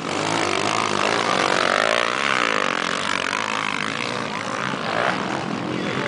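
Several motocross bikes racing, their engines revving up and down in overlapping rising and falling pitch swings.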